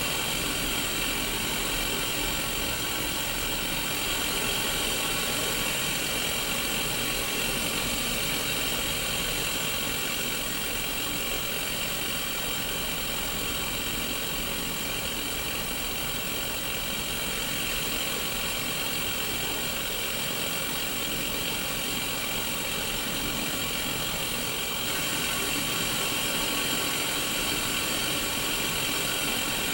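Steady static hiss from a Sony Mega Watchman black-and-white pocket TV tuned to no station, played through its small speaker, with faint steady tones mixed into the hiss.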